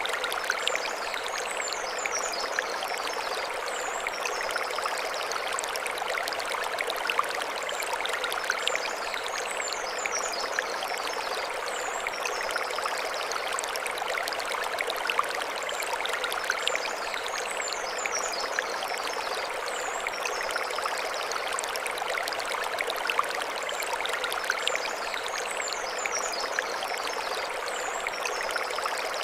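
Mountain stream flowing over stones, a steady rushing babble. A high chirping call recurs about every eight seconds above the water.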